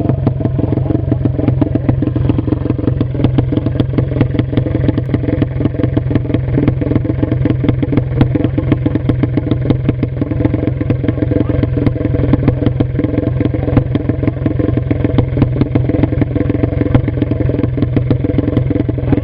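A 230cc fuel-injected prototype motorcycle engine, fitted with a new cylinder head, running steadily and loudly on test, its rapid exhaust pulses even throughout.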